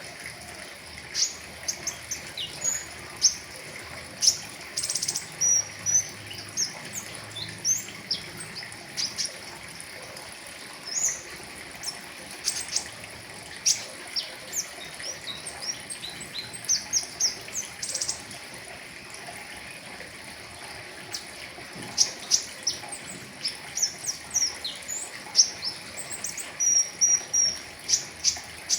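A pentis raja songbird singing: many short, sharp, high chirps and quick twittering runs, scattered irregularly, over a steady background hiss.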